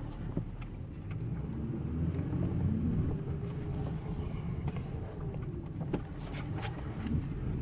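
Inside the cab of a 2003 Ford F-150 making a slow, sharp left turn: low rumble with a humming noise that swells and fades over a few seconds. The owner hears it only on left turns, from the left side, and is unsure whether it comes from the wheel bearings or the 4x4 front end.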